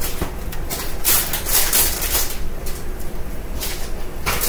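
Hands tearing open a cooked chicken wing: short rustling, crackling noises about a second in and again near the end, over a steady low rumble.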